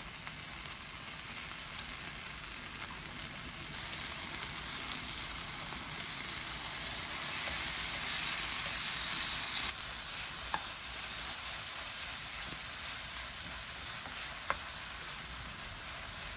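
Sliced onions and beaten egg sizzling in a nonstick frying pan as they are stirred with wooden chopsticks and a wooden spatula. The sizzle grows louder about four seconds in and eases back near ten seconds, with a couple of light clicks of the utensil later on.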